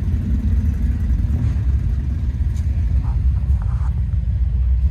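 Steady low vehicle rumble, an engine running continuously with no change in pitch.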